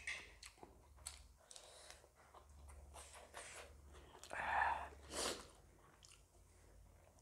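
A person chewing a mouthful of food with the mouth closed: soft wet smacks and small clicks. Two louder short noises come about four and a half and five seconds in.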